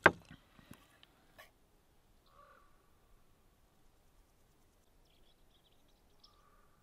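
A sharp knock at the very start, then a quiet outdoor background with a few faint, short bird calls in the distance, one about two seconds in and another near the end.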